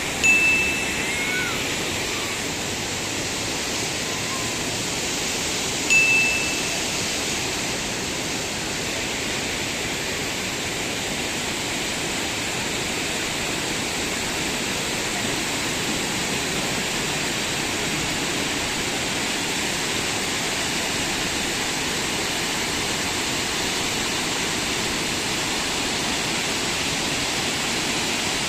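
Steady rushing of flowing water, like a waterfall or rapids, with two short high whistles, one near the start and one about six seconds in.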